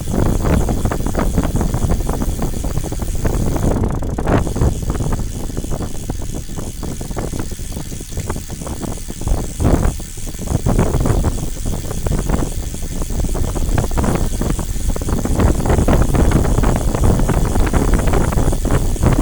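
A vehicle in motion, with steady low rumbling noise and wind buffeting the microphone.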